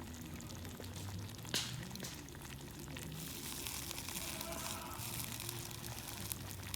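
Food sizzling as it cooks over heat: a steady crackling hiss with one sharp pop about one and a half seconds in, growing denser from about halfway through.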